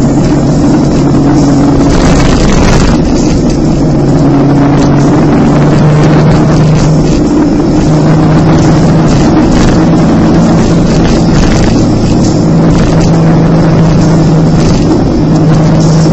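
Motorcycle engine running at steady road speed, heard from the bike, its note shifting slightly in pitch every few seconds as the throttle changes through the bends. Wind noise on the microphone runs under it.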